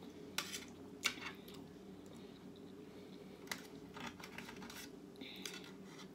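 Close-miked eating sounds while chewing a bite of steak: a scattering of short, sharp clicks and taps over a steady low hum.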